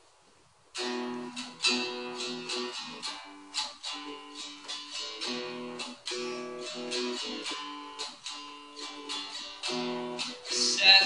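Ovation acoustic guitar playing a chord pattern as the song's intro, starting just under a second in.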